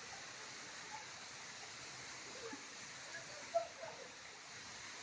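Steady rushing water of a waterfall and stream, with a brief louder sound about three and a half seconds in.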